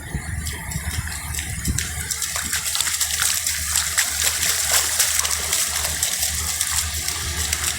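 Sea surf washing onto a beach: a steady rushing hiss of breaking waves, full of small crackles and splashes, over a low rumble.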